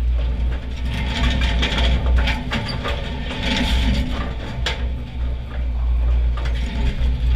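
Automatic bowling pinsetter cycling: a steady low mechanical rumble with repeated wooden clattering and knocks as the sweep bar clears the pins.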